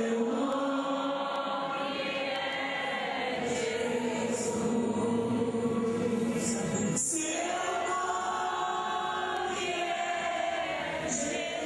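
Worship music with choir singing: long held sung notes, with a brief break about seven seconds in.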